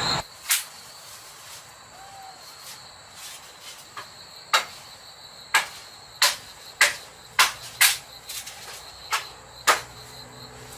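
About nine sharp knocks or taps at irregular intervals, most of them in the second half, over the steady high chirring of insects.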